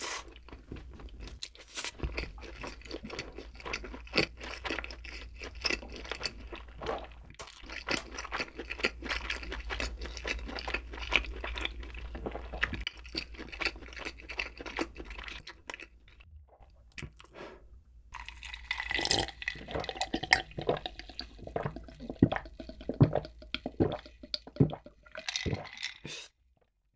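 Close-miked chewing of a mouthful of food: many small wet, crunchy mouth sounds. After a brief lull about sixteen seconds in come liquid sounds from a glass of iced drink, with some clinks and swallows.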